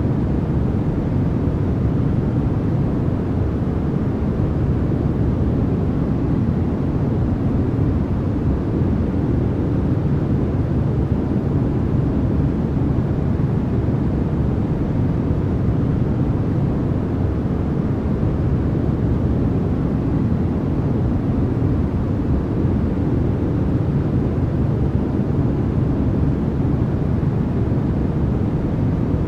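Steady, unchanging generated noise from a sleep and focus track billed as white noise. Most of its energy sits low with little treble, so it sounds like a deep, even rush rather than a bright hiss.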